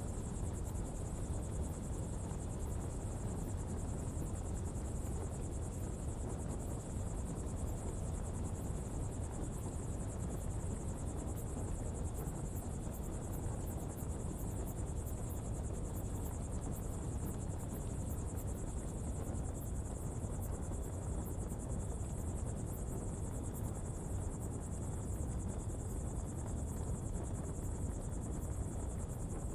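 Coal-fuelled pottery fire burning with a steady low rumble and faint crackle, under a constant high insect drone.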